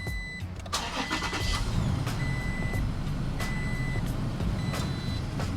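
A 2019 Toyota Tacoma's engine cranks and starts about a second in, then runs steadily after the fan clutch replacement. Over it, a single high in-cab warning beep repeats about once every 1.2 seconds.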